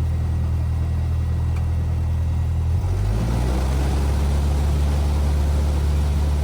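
Cessna 172R's four-cylinder Lycoming engine and propeller heard from inside the cockpit, running steadily and then picking up in pitch and a little in loudness about three seconds in as the power changes.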